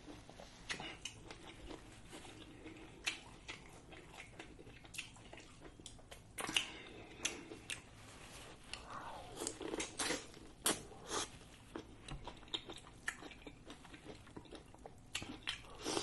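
A person biting and chewing grilled corn on the cob dipped in butter sauce, close to the microphone: many short sharp mouth clicks, with a few louder bites about six and ten seconds in.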